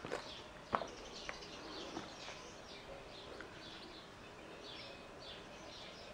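Small birds chirping: many short, high chirps in quick succession, more frequent in the second half. A few sharp clicks in the first two seconds, the loudest about a second in.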